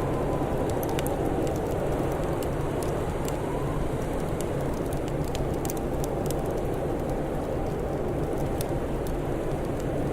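Steady low rushing roar of blizzard wind with a faint whistling tone, and a wood fire giving sparse small crackles and pops.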